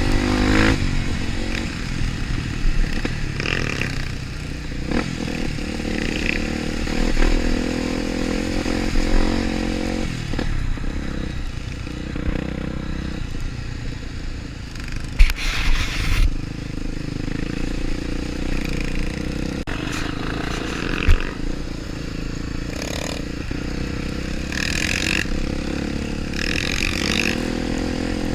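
Off-road vehicle engine running on a muddy trail, its pitch changing with the throttle, amid scattered clatter and scraping knocks. Sharp loud knocks come about fifteen and twenty-one seconds in.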